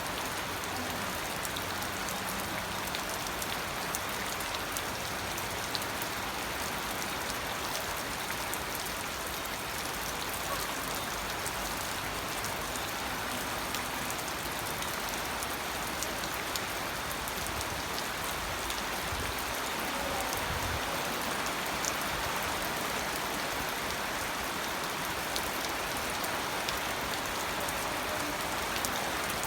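Steady rain falling, with fine scattered drop ticks over an even hiss.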